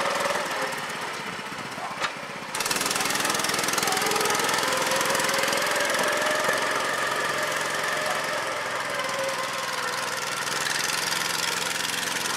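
Small 6.5 hp single-cylinder Chinese Honda-clone engine powering an old Farmall tractor, running under load with its speed drifting up and down. A sharp click comes about two seconds in, after which the engine runs louder.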